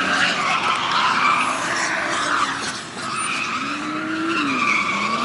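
Drift cars sliding with sustained tire squeal while their engines rev up and down.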